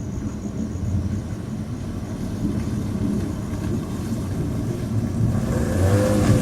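Low, steady thunderstorm rumble that grows louder near the end.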